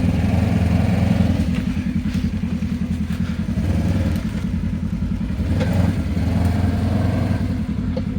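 Off-road vehicle engine running at low speed, a steady pulsing rumble with a few light rises in revs.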